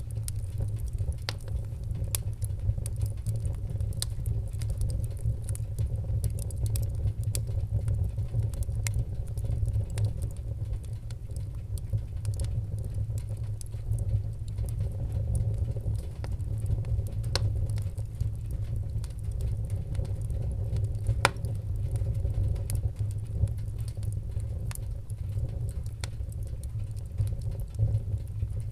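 Wood fire burning in a fireplace: a steady low rumble with irregular sharp crackles and pops, one louder pop about two-thirds of the way through.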